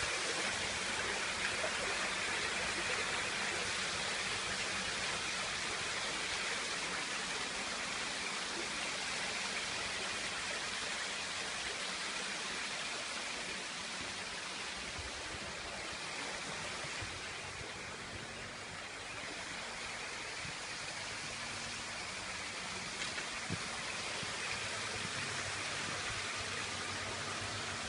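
Steady rush and splash of water pouring over a man-made decorative waterfall, dipping slightly about two thirds of the way through.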